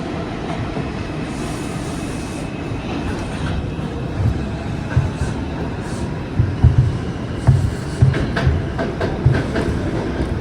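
R142 subway train running between stations: a steady rumble of wheels on the rails, with clacking thumps over rail joints coming in from about halfway through.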